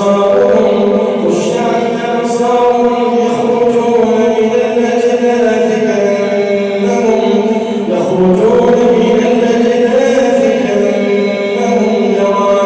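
A man chanting Quran recitation in a slow, melodic style, holding long drawn-out notes that bend in pitch, with a shift to a new phrase about eight seconds in.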